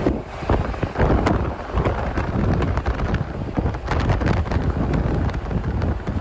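Wind buffeting the microphone, a loud low rumble with many sharp clicks and pops mixed in.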